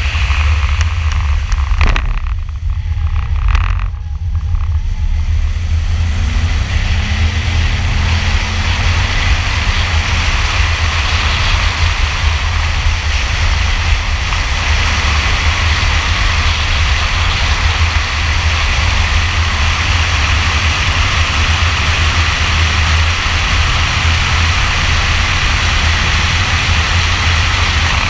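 2002 Camaro Z28's 5.7-litre LS1 V8 running hard at track speed, heard from inside the car over a steady heavy low rumble. The sound drops briefly about two seconds in, then stays loud and steady as the engine pulls through the corners and onto the straight.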